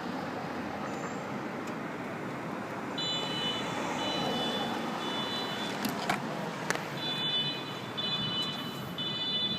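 Road traffic on a busy street, with a high-pitched beep repeating about once a second from about three seconds in, and a couple of sharp clicks in the middle.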